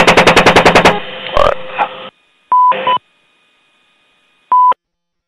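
A burst of rapid machine-gun fire, about a dozen shots a second, stopping about a second in. Then comes a moment of radio hiss and crackle, and short single-pitch radio beeps: a pair around the middle and one more near the end.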